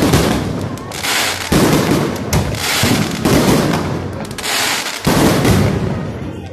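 Aerial fireworks shells bursting at close range: five loud bangs in quick succession, each fading out over a second or so.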